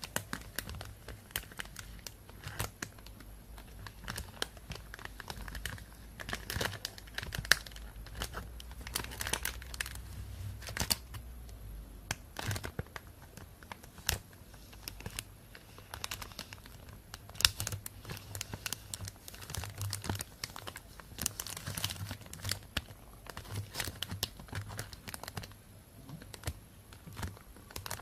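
Thin plastic bag crinkling and rustling close to the microphone: a continuous run of small crackles with sharper snaps now and then.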